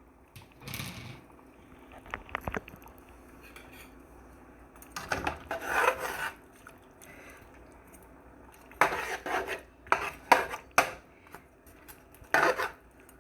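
A cooking spoon scraping and clinking against a pot in several short, separate bursts while the shrimp go into the stew.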